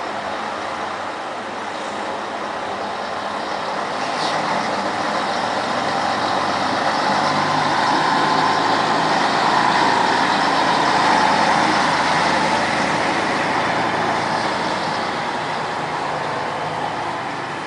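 Scania 112H truck's six-cylinder diesel engine running during a low-speed maneuver, growing louder toward the middle and then easing off.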